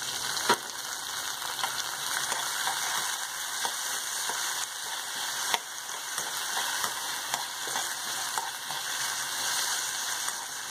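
Onions, green chilli and freshly added soaked moong dal sizzling in hot oil in a kadai, stirred with a steel spoon that clicks and scrapes against the pan. Sharp knocks of the spoon come about half a second in and again about halfway through.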